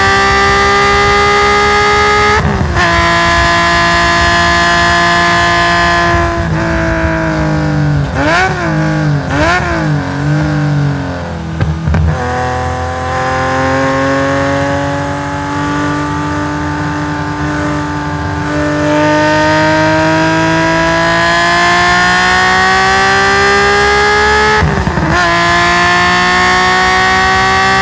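Nissan S20 straight-six of a tuned Skyline GT-R race car, through its straight-through stainless exhaust, heard from on board at full throttle. The revs climb and drop sharply at upshifts about two and a half seconds in and near the end; through the middle they fall and waver up and down with the throttle off and on, then climb steadily for about twelve seconds.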